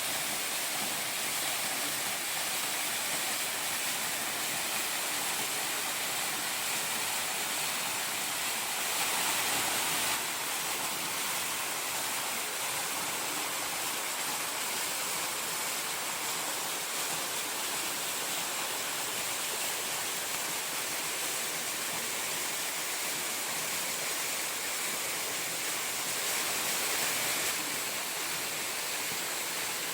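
Small waterfall with a drop of about 10 m and a light flow, its water falling and splashing in a steady rush. The rush swells slightly twice, about a third of the way in and near the end.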